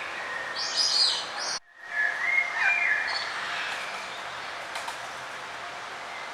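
Small songbirds chirping and singing in short, high phrases over a steady outdoor background hiss. The sound cuts out completely for a moment about a second and a half in, then the birdsong resumes.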